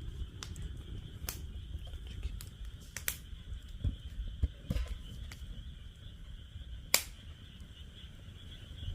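Wood fire burning in a fire pit stand, crackling with a handful of sharp, irregular pops, the loudest about seven seconds in. A steady high-pitched chorus runs behind it.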